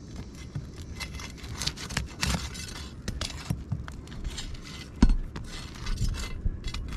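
Scraping and clicking of a hand tool working under asphalt roof shingles to pull out roofing nails, with one sharp knock about five seconds in.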